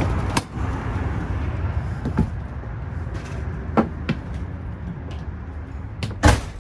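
Steady outdoor rumble with scattered knocks and clicks as a motorhome's entry door is opened and climbed through, then a loud bang of the door shutting about six seconds in.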